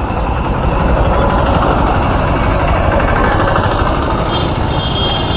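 Vehicle engine and road noise from riding through traffic, steady and loud, swelling around the middle. A vehicle horn sounds near the end.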